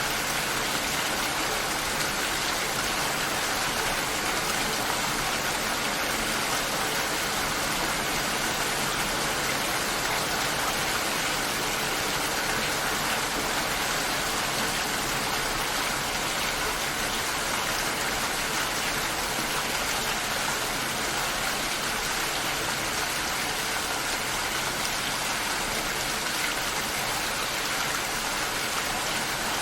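Steady rain shower falling and pattering on surfaces, an even hiss without pauses.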